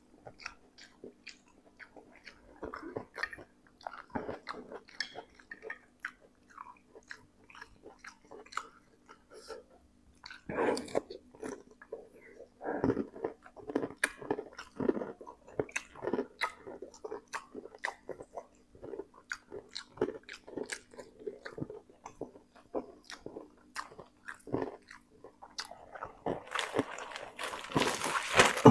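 Close-miked eating: a man chewing noodles and then biting and chewing crispy smashed fried chicken in chili sambal, with crunching, clicks and wet mouth sounds. A louder hissing noise comes near the end.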